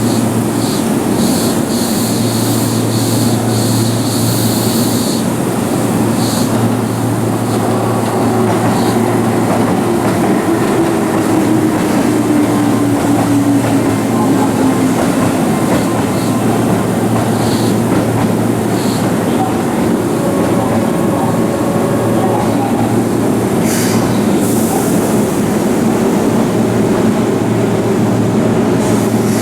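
Keihan electric train at a station platform, running loud and steady with a rumbling hum. Between about 8 and 15 seconds in, a motor whine falls in pitch, as of a train slowing.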